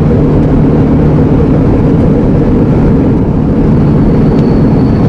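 Iveco Eurocargo lorry's diesel engine running with road noise, heard from inside the cab while driving; a loud, steady low rumble.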